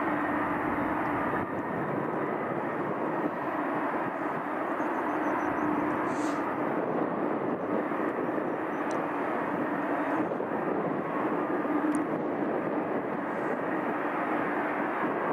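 Airbus A330 jet engines running at taxi power, a steady hum with a low tone that fades in and out.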